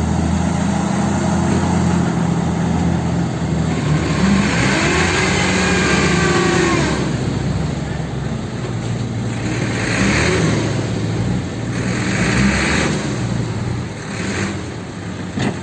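Heavy diesel engine running under load, its pitch stepping up and down as it is revved, with a rise and fall about five seconds in.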